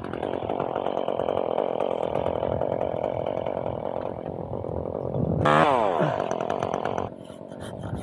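Chainsaw running under load, then a louder burst whose pitch falls sharply about five and a half seconds in, before it drops to a quieter idle with light clicking about seven seconds in.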